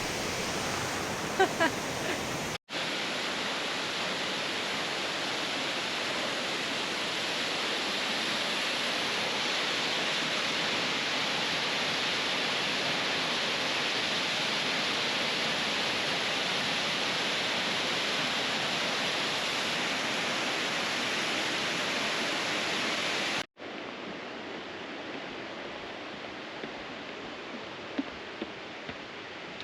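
A waterfall on a mountain river, its water rushing steadily. The sound cuts in louder about three seconds in and drops to a quieter rush a few seconds before the end.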